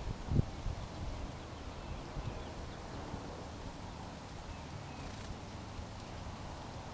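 Faint, scattered bird chirps over a steady low rumble, with a couple of dull thumps near the start.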